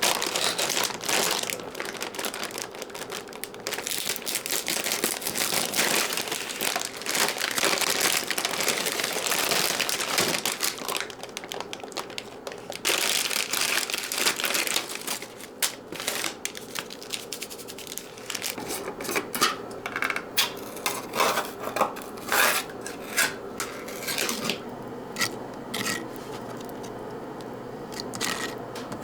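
Close rustling and crinkling handling noise, like packaging or wrapping being handled, for a good while, then a run of separate light clicks and taps.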